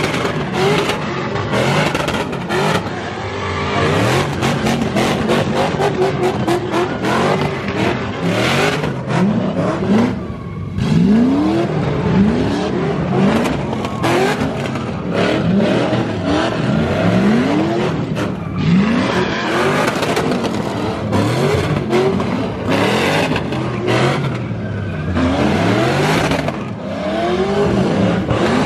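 Cadillac CTS sedan engine revved hard again and again during a burnout on wet pavement, each rev rising and falling in pitch, every second or two, over a constant rush of tyre and crowd noise.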